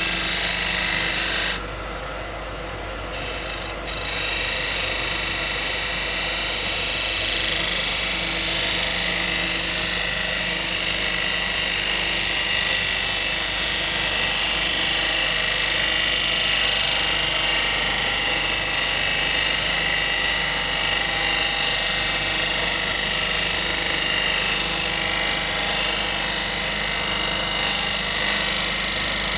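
Wood lathe running with a turning tool working against the spinning rowan-wood bowl: a steady hiss over the motor's hum. The tool comes off the wood for about two seconds early on, leaving only the lathe's hum, then goes back on.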